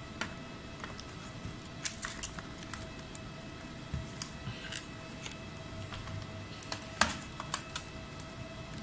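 Scattered small clicks and taps of hands and small tools working on a laptop, the sharpest about seven seconds in, over a faint steady hum.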